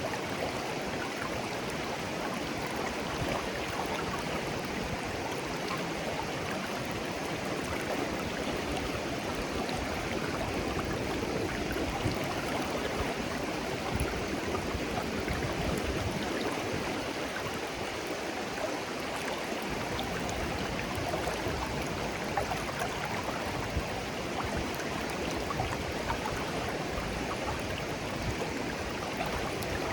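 Clear stream flowing gently over stones, a steady babbling with small splashes and trickles.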